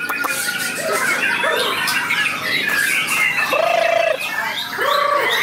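White-rumped shama (murai batu) singing a fast, varied song of quick high whistles and chatters, with two lower, held, trilling notes in the second half.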